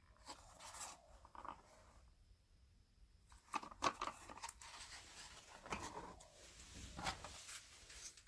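Hands working cardboard: irregular rustling and scraping with sharp clicks, busiest in the second half with the loudest clicks a little past the middle and near the end.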